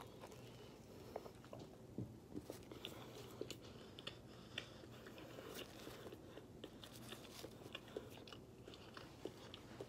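Faint close-up mouth sounds of a person biting into and chewing a breakfast sandwich: small irregular clicks and smacks.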